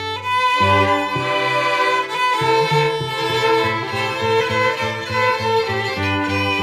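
A string ensemble playing an arrangement for string choir: bowed violins holding sustained chords over a low bowed bass line, with the harmony shifting at each chord change.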